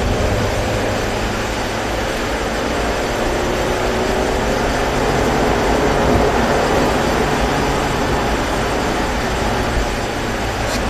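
Mazda 3 1.6 engine heard from inside the cabin, accelerating out of a corner, its note rising gradually over a steady rush of tyre and road noise on a wet track.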